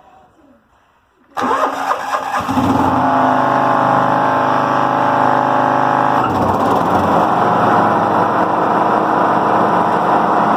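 Riding lawn mower engine starting suddenly about a second in and running steadily. About six seconds in the sound turns rougher and noisier as the electric clutch engages the mower deck.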